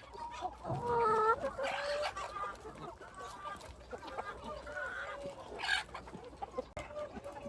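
A flock of free-range chickens clucking, several birds calling over one another, loudest about a second in.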